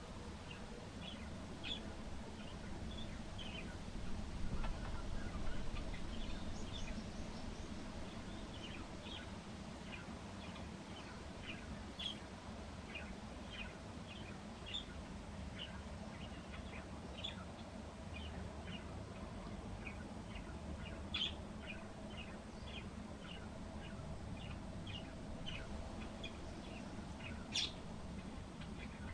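Small birds chirping: many short, high chirps scattered throughout, over a steady low rumble of wind and city background, which swells for a couple of seconds near the start.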